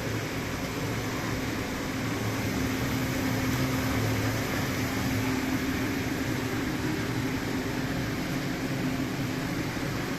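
Hood-type commercial dishwasher running a wash cycle: a steady machine hum with a hiss.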